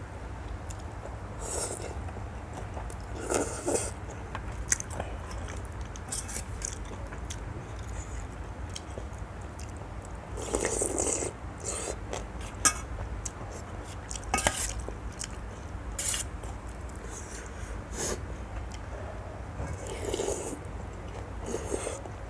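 A person eating noodle soup: chewing and slurping in short bursts every few seconds, with a few sharp clicks, over a steady low hum.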